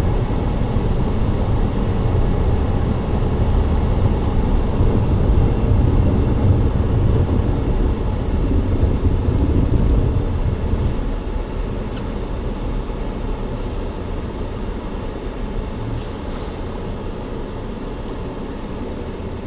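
Steady rumble of a vehicle on the move: road and engine noise, heaviest in the low range, easing slightly after about ten seconds.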